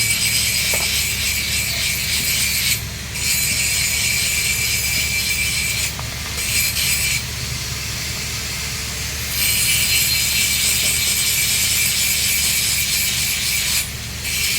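Electric arc welding on steel pipe: the arc crackles and hisses steadily, with a low hum beneath it. The crackle drops out briefly about three seconds in, again about six seconds in and near the end, and is softer for a couple of seconds in the middle.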